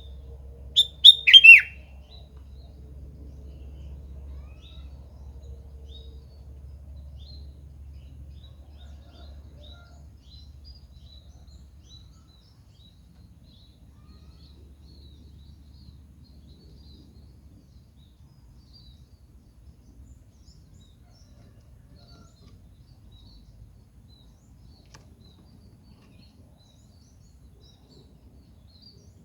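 Sooty-headed bulbul (kutilang) giving a short, loud call of three quick notes falling in pitch about a second in, followed by faint, scattered high chirps.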